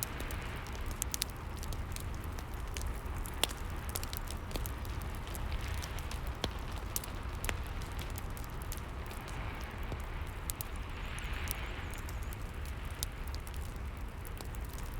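Fireplace crackling with frequent irregular sharp pops, over a steady hiss of rain and a low rumble.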